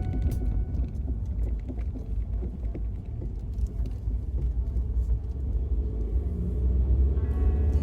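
Steady low rumble of a car driving, with faint clicks over it; music comes back in near the end.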